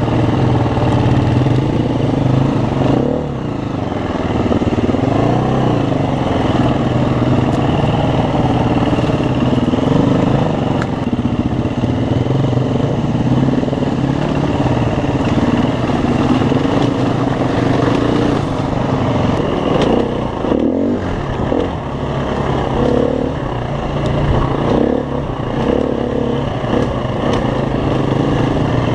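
Dirt bike engine running and revving, its pitch wavering up and down.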